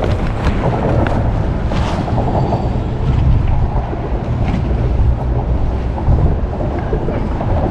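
Loud, steady low rumble of wind and water on an open boat, with no clear engine note and a few faint clicks.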